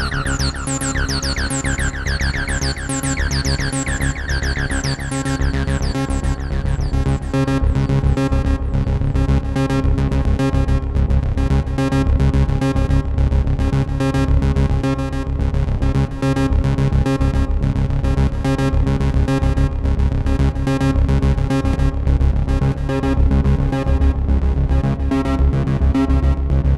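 Behringer TD-3-MO bass synth playing an arpeggiated pattern through effects, with rapid repeating notes over a steady low bass. For the first six seconds or so quick downward-sweeping zaps ring out above the notes; then they give way to a fast, even pulsing of short notes.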